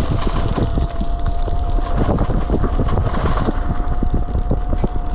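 Electric bike riding over a rough, broken road: a steady high whine from its motor, many short knocks and rattles from the bumps, and wind buffeting the microphone.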